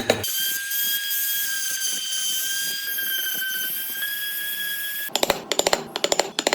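Small electric power tool running steadily with a high-pitched whine, its pitch wavering slightly, then stopping about five seconds in.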